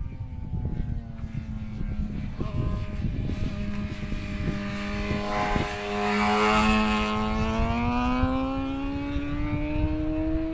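A single track sweeper vehicle's engine runs steadily as it passes, loudest a little past halfway, its pitch climbing over the last few seconds as it speeds up. Strong wind rumbles on the microphone.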